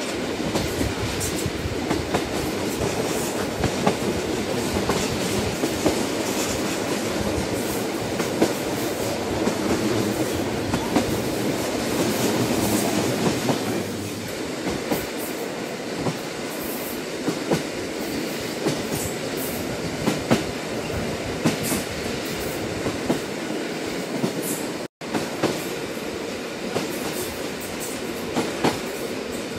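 Train running along the track: a steady rumble with irregular clicks and clacks of wheels over the rails. The sound cuts out for an instant about three-quarters of the way through.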